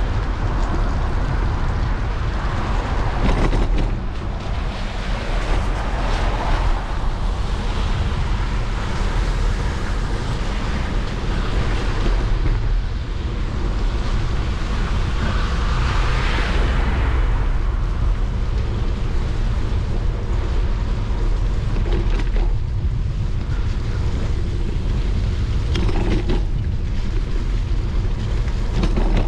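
Riding a bicycle in the rain: a steady low rumble of wind on the microphone over a continuous rush of tyres and road noise, with a few short knocks from the bike.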